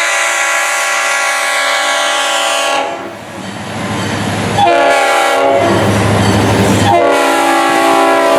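Diesel locomotive's multi-note air horn sounding a long blast, a short blast a little after halfway, then another long blast near the end. Between the blasts a low rumble of the train is heard.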